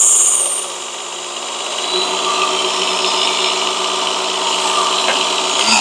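Work Sharp Ken Onion Edition belt sharpener running on its lowest speed while a Damascus steel knife blade is ground against the moving abrasive belt. A hissing scrape is loudest in the first half second, then settles into a steady motor whine with grinding noise.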